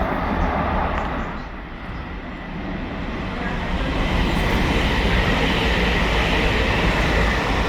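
Train running at a station platform: a steady rumble and rush that eases about two seconds in, then builds again with a high whine over the second half.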